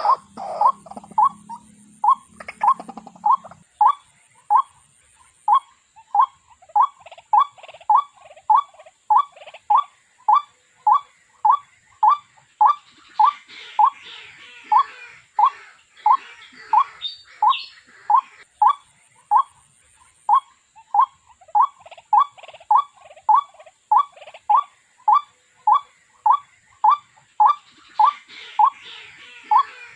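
White-breasted waterhen calling: a long, monotonous series of short, evenly spaced notes, each curving slightly upward in pitch, repeated without a break.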